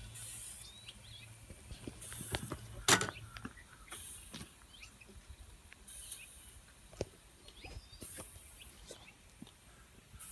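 Scattered metal clicks and knocks of hand work on a stationary steam engine's crank and oil can, one sharp knock about three seconds in. A soft hiss comes and goes about every two seconds, and a low hum stops a few seconds in.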